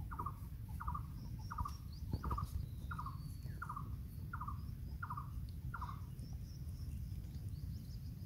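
A bird calling the same short note over and over, about one and a half a second, stopping about six seconds in, with fainter high chirps of other birds and a steady low rumble underneath.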